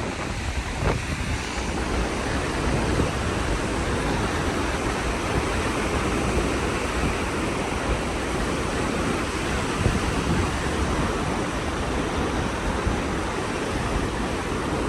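Wind buffeting the microphone in a steady low rumble, over ocean surf washing on the beach.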